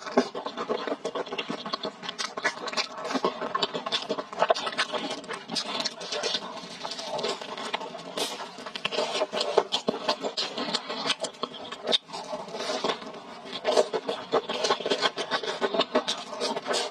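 Close-miked chewing and biting: dense, quick clicks and crackles of someone eating crispy-yet-sticky fried sweet potato skin and saucy spicy fish balls.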